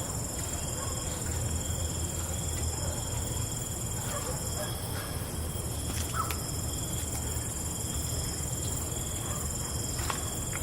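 Night insect chorus: crickets and other insects trilling steadily at several high pitches, over a steady low rumble, with scattered faint chirps and clicks.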